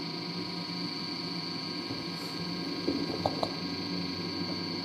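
LG DirectDrive washer-dryer running its drying cycle: a steady hum from the drum motor and drying fan, with a few light knocks about three seconds in as the towels tumble.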